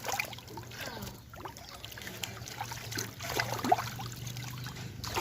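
Water trickling and sloshing as catfish are caught by hand in shallow pond water, under a steady low hum, with faint voices now and then.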